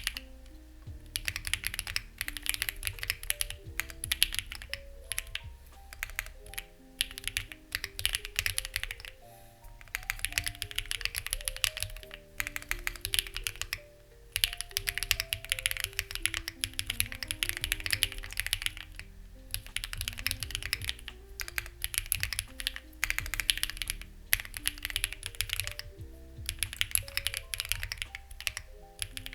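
Typing on a Lucky65 v2 65% mechanical keyboard with stock, unlubricated HMX Ziwei switches: rapid key clacks in runs of several seconds, broken by short pauses about every two to five seconds.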